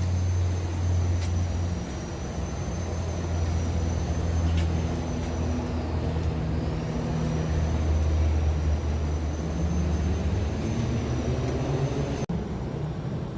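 City traffic: a steady low hum of vehicle engines with a rushing noise, and one vehicle rising in pitch as it speeds up about ten seconds in.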